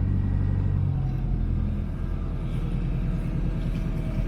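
Boat's engine running steadily, a low hum whose even note turns rougher about a second in.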